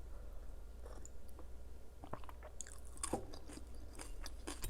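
A person chewing food close to the microphone, with scattered crisp crunches.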